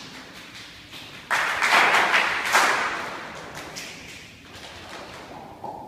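Choir's hand claps and taps imitating rain: a dense burst of about a second and a half that then thins out into scattered taps.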